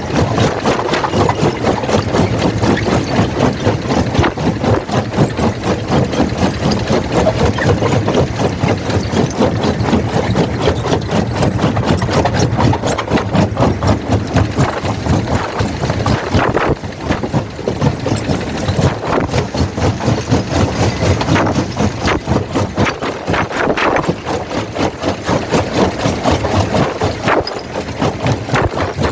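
Primary jaw crusher running loud with a dense, rapid stream of knocks as it works on rock.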